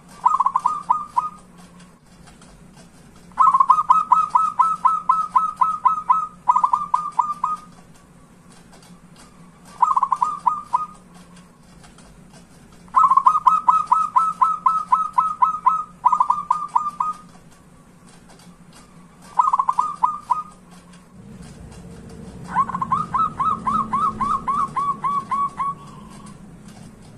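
Zebra dove (perkutut) singing: repeated bouts of quick cooing notes, each bout one to three seconds long, with pauses of a couple of seconds between them. A faint steady hum runs underneath, and a low rumbling noise comes in near the end.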